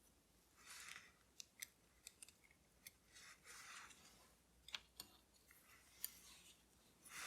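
Faint sharp clicks and short scraping sounds of small tools and parts being handled during watch reassembly, the loudest scrape near the end.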